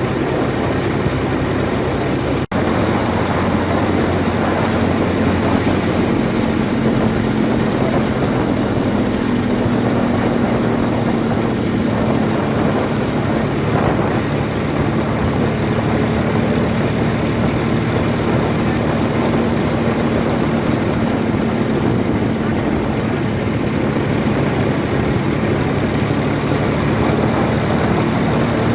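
Heavy diesel engine running steadily at a constant speed, with a low hum.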